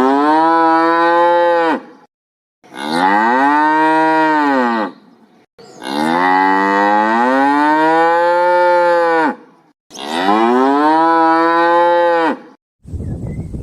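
Cow mooing four times: long, drawn-out moos, each rising and then falling in pitch, with short pauses between them.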